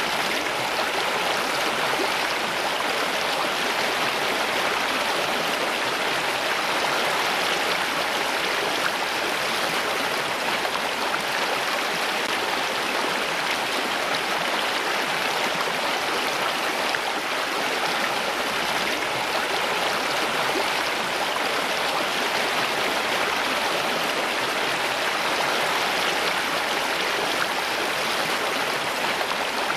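Steady running water, an even rushing sound with no pauses or changes.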